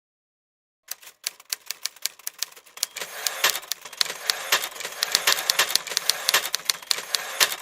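Rapid, irregular clicking and clatter that starts suddenly about a second in and grows denser and louder, with sharp, loud clicks standing out.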